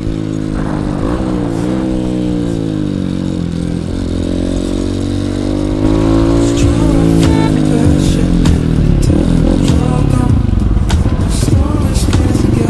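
Honda CRF150L's single-cylinder four-stroke engine running under way, its pitch rising and falling with the throttle. It gets louder about six seconds in, with scattered ticks and knocks over the engine in the second half.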